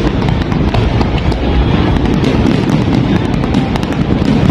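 Fireworks going off in quick succession: a continuous low rumble of bursts with many sharp crackles throughout.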